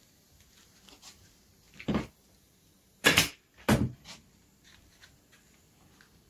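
Three short, sharp knocks, about two seconds in, a second later and again just after, with faint small clicks between them.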